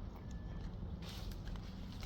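Rustling of leaves and vines with scattered light clicks and steps, a short rustle about a second in, over a steady low rumble.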